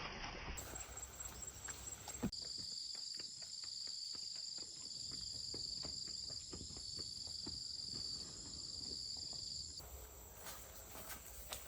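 A steady, shrill chorus of insects that starts abruptly about two seconds in and cuts off near the end, with soft, regular footsteps beneath it.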